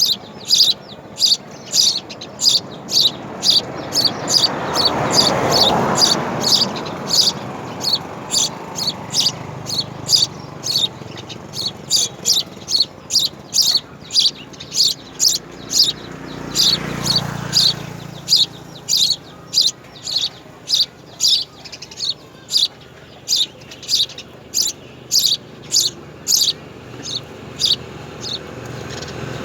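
A small bird chirping over and over in a steady rhythm, about two short high chirps a second. Twice a broad rushing sound swells up and fades, around five and seventeen seconds in.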